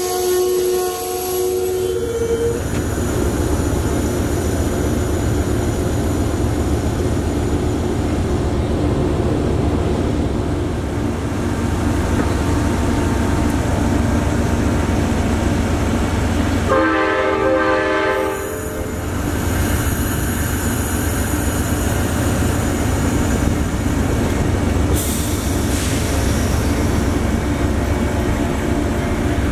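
Amtrak passenger train rolling past close by, a steady rumble of wheels on the rails throughout. A horn chord is still sounding at the start and stops about two seconds in, and another horn blast of about a second and a half comes a little past halfway.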